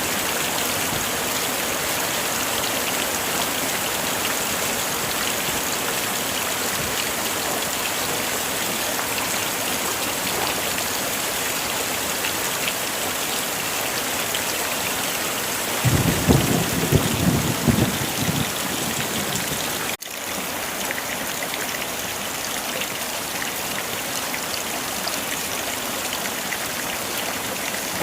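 Heavy rain falling steadily, a dense even hiss. About sixteen seconds in, thunder rumbles low for a few seconds. Around twenty seconds in, the sound cuts out for an instant and resumes a little quieter.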